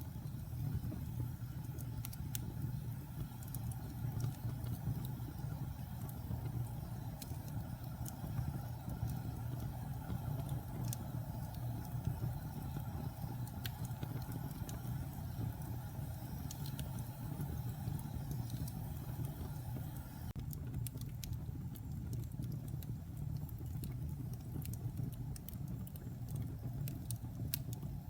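Wood fire burning in a fireplace: a steady low rumble of the flames with scattered crackles and pops from the burning wood, the crackles coming more often in the last several seconds.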